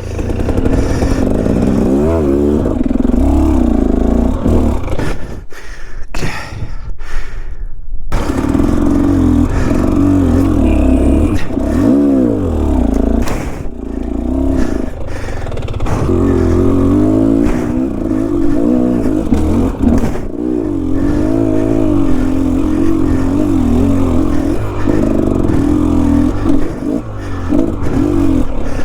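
Enduro dirt bike engine revving up and down as it is ridden over steep, technical trail. The engine note drops away for a couple of seconds about six seconds in, then picks up again.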